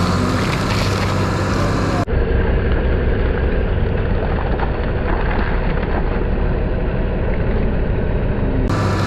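An engine running steadily under load. About two seconds in, the sound cuts abruptly to a duller, rumbling engine noise, and it switches back near the end.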